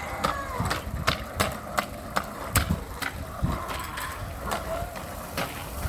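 Rattling and knocking of a bike being ridden: irregular sharp clicks over a low rumble.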